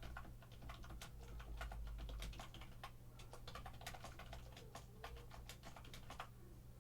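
Typing on a computer keyboard: quick, irregular runs of key clicks, entering a list of names. A faint steady low hum runs underneath.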